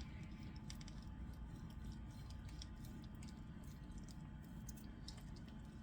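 Quiet kitchen room tone: a low steady hum with a few faint, light clicks in the first few seconds.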